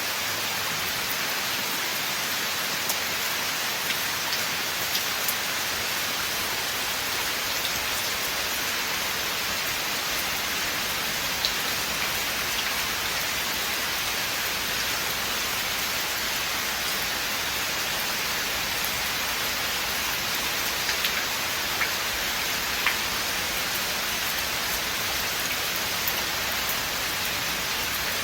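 Steady rain falling in a forest, a dense even hiss with occasional sharper drops pattering nearby.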